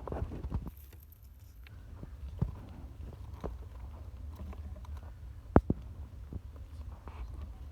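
A parent pigeon feeding its newborn squab: scattered soft clicks, taps and rustling from beaks and bodies in the nest, with one sharper click about five and a half seconds in, over a low steady rumble.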